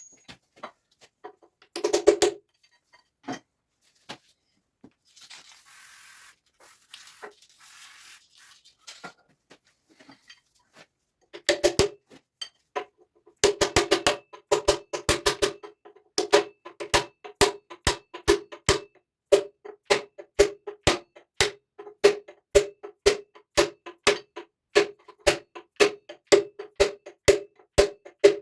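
Hammer tapping on metal: a few separate knocks, then a steady run of sharp strikes about two a second, each with a short ringing note. A brief hiss comes a few seconds in.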